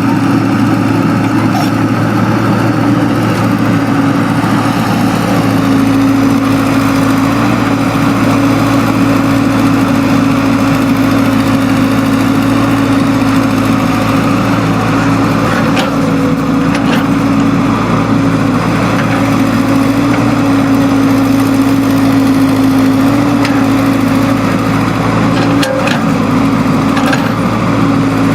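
Excavator's diesel engine running steadily at working speed, its pitch shifting slightly a few times. A few short clicks or knocks come through, about halfway and again near the end.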